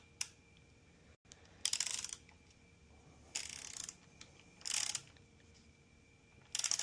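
Ratchet head of a digital torque wrench clicking in four short runs, as the wrench is swung back between pulls on a connecting-rod cap bolt.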